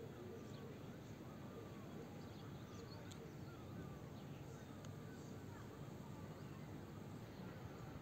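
Faint outdoor ambience: scattered short bird chirps over steady low background noise.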